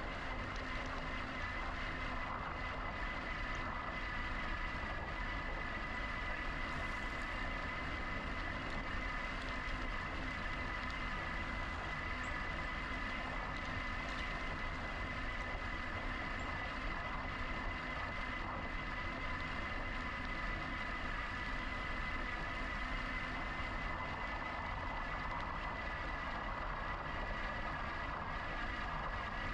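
Electric bike riding along at a steady pace: continuous wind and tyre noise with a steady high whine throughout.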